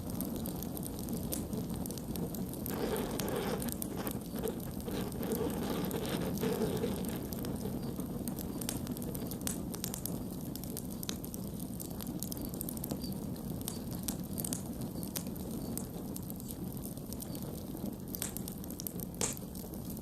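Campfire burning: a steady low rush of flames with scattered sharp crackles and pops from the burning wood. The fire grows fuller for a few seconds a few seconds in, and one sharp pop stands out near the end.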